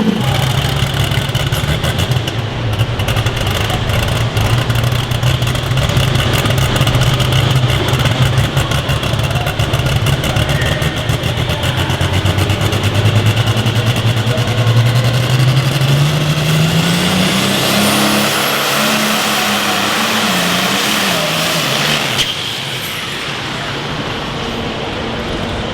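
Engine of a pulling vehicle running hard at full throttle with a steady, fast-firing note. About sixteen seconds in it climbs in pitch, then winds down and turns quieter for the last few seconds.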